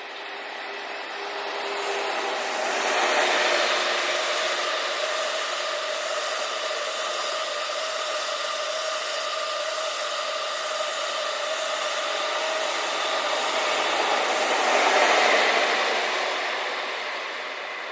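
Locomotive-hauled sleeper train passing at speed, a long steady rush of wheels on rail. It swells in, is loudest twice, near the start and again near the end, matching a locomotive at each end of the twelve-coach push-pull train, then fades away.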